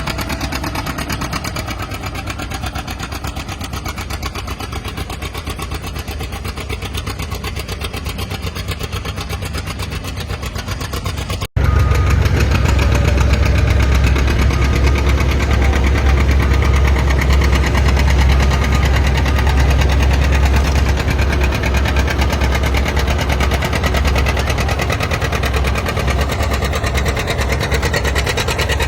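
Antique farm tractor engine running steadily. About eleven seconds in the sound cuts abruptly to a louder, deeper engine note.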